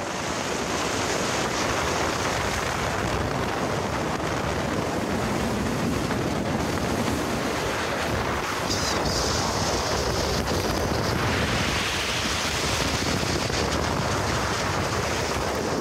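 Steady rushing noise of wind and water on the deck of a moving cruise boat, with wind buffeting the microphone.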